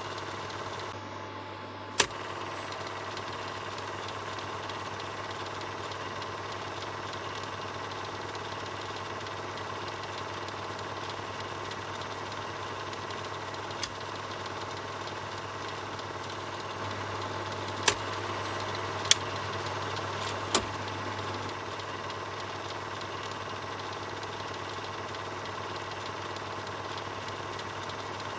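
Film projector running steadily: a continuous mechanical whir over a low hum, with a few sharp clicks, one about two seconds in and a cluster of three a little past the middle.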